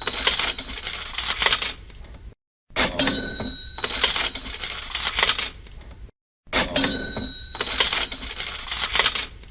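Cash register sound effect on a loop: a bell ding with a jangle of coins and the drawer lasting about two seconds, dying away into a short silence. It starts over twice, a little under four seconds apart.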